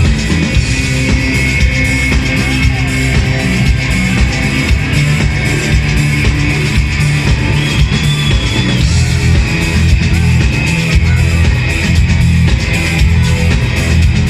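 Live rock band playing loudly: amplified electric guitars over a drum kit.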